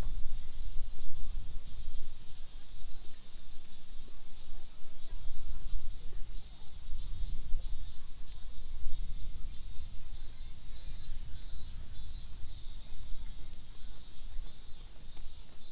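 Cicadas buzzing in the trees, with a pulsing call repeating about twice a second over a steady high drone, and a low rumble underneath.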